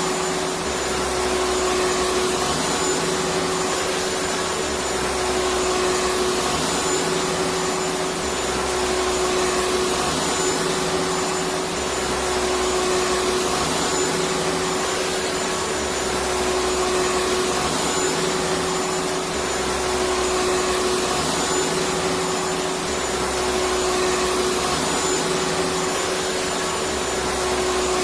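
Electric vacuum cleaner running continuously: a steady rush of air with a constant motor hum, and a low rumble that swells and fades every couple of seconds.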